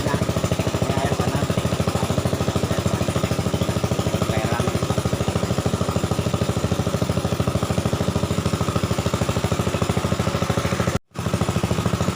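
A small boat's engine running steadily with a rapid, even pulse. It breaks off for a split second near the end.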